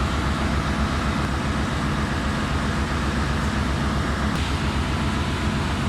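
Steady engine-room machinery drone, a running diesel's low hum with a haze of mechanical noise above it. A faint tick comes about four seconds in.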